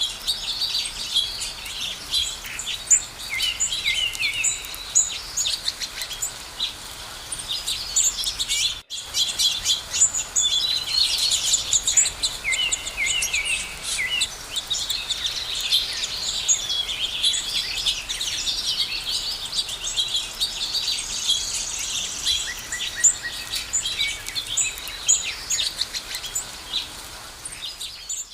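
Many songbirds singing and chirping at once, a dense overlapping chorus of high chirps and trills, with a brief break about nine seconds in.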